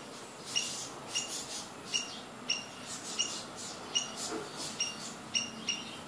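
A small bird chirping: short, high, single-pitched chirps repeated about twice a second at uneven spacing.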